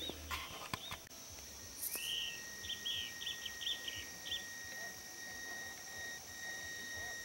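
A bird chirping a quick run of short calls about two seconds in, over a faint, steady high-pitched hum.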